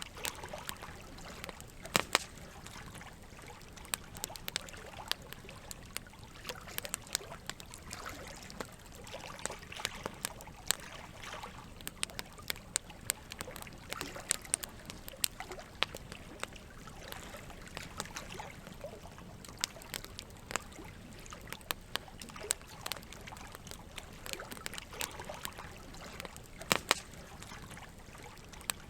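Campfire wood crackling and popping in sharp, irregular snaps, loudest about two seconds in and near the end, over a steady wash of trickling water.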